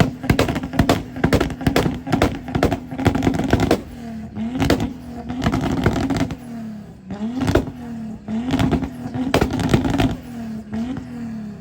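A car engine held at high, steady revs, dipping briefly and recovering again and again, with sharp crackling pops throughout. Near the end the revs fall away.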